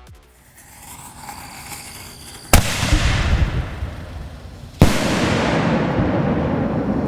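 Consumer aerial noise shell fired from a mortar tube. A faint hiss builds, then two loud bangs come about two seconds apart: the lift charge, then the shell's break as a salute report. The second bang trails off in a long rumbling echo.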